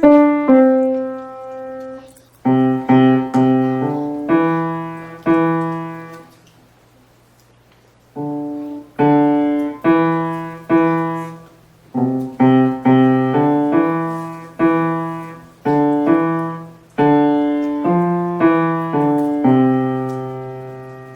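Piano played by a child: a simple piece of single notes and chords in short phrases. It stops for about two seconds partway through, then picks up again.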